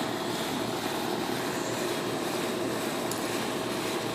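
Steady mechanical drone with a faint steady hum running through it, no distinct events.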